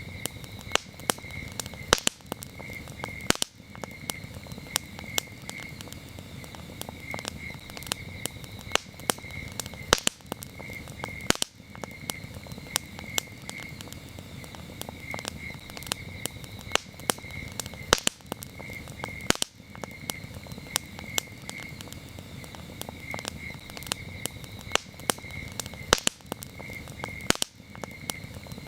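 Campfire crackling: frequent sharp pops, a few much louder, over the low rush of the burning wood. Crickets chirp throughout in short pulsed trills.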